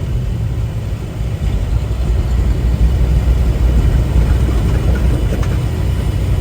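Steady low drone inside a semi-truck's cab while driving: the diesel engine and road noise running evenly.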